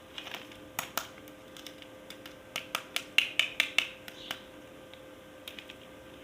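Sharp plastic clicks and taps from handling toy pieces: two near the start, a quick run of about seven in the middle, and a few softer ones near the end.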